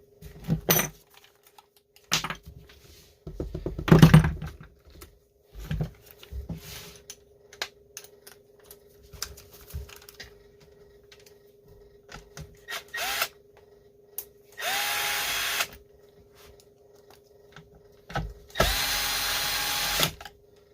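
Knocks and clatter of parts and tools being handled, then a power drill/driver run twice for a second or so each time near the end, its motor whine rising and then holding steady. It is driving in the screws that fasten a STIHL 026 chainsaw's recoil starter housing.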